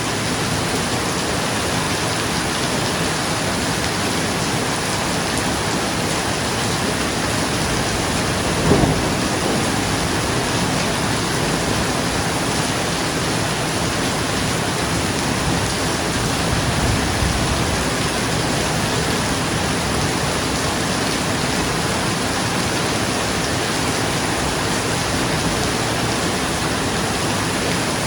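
Steady rain falling on a roof, with a short rumble of thunder about nine seconds in and a fainter, longer rumble around seventeen seconds.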